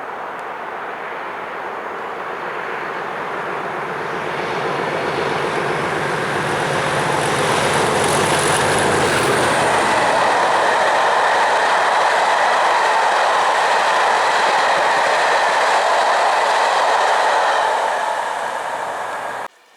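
Train passing at speed on the main line: a steady rush of wheel and rail noise that builds over the first few seconds, holds loud for most of the passage, then begins to fade before cutting off suddenly near the end.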